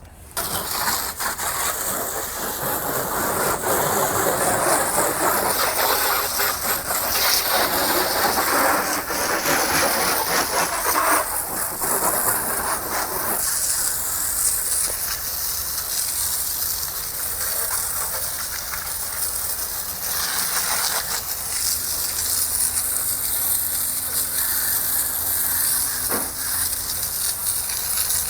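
Water spraying against a car's bodywork: a loud, steady hiss that starts suddenly and shifts in strength as the spray moves over the car.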